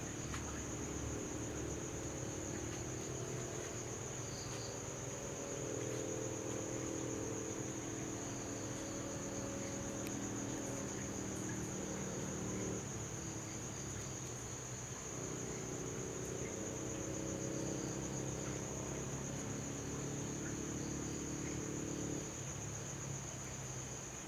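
Insects, cricket-like, chirring steadily on one high note, with a low droning sound that comes and goes underneath, fading out for a couple of seconds near the middle.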